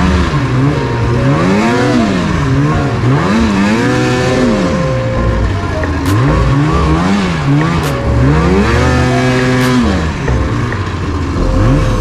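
Snowmobile engine revving up and down over and over as the sled rides through snow, with wind buffeting the microphone. A few brief sharp knocks are heard in the second half.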